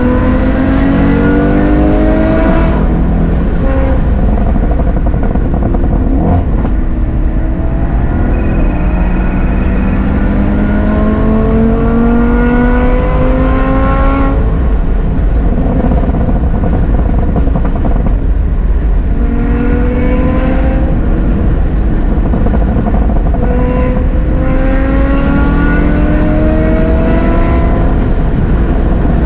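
Car engine accelerating hard through the gears: its pitch climbs, drops at each upshift and climbs again, several times over, above a steady low road rumble. A brief high steady tone sounds about nine seconds in.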